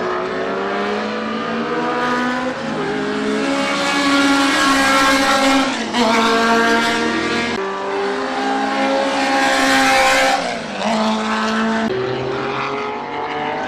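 Historic sports racing car engines running hard at full throttle. Their pitch climbs for a few seconds at a time and drops suddenly several times.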